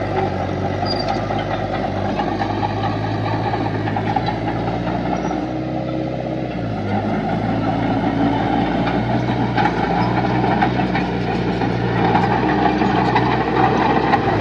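Heavy construction-machine diesel engine running steadily. Its pitch shifts down and back up about six to seven seconds in, and it grows slightly louder toward the end.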